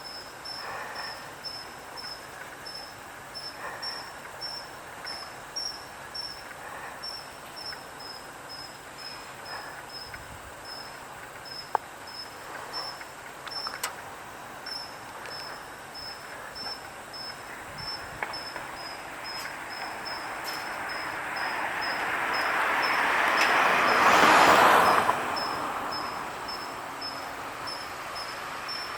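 High, steady insect-like chirping, about two chirps a second. A rush of noise swells over several seconds like a passing vehicle, is loudest about 24 seconds in, then drops off suddenly.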